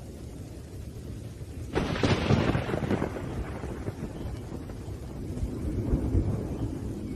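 Thunderstorm with a steady low rumble of thunder under rain. A sudden sharp thunderclap about two seconds in fades back into the low rumble, which swells again near the end.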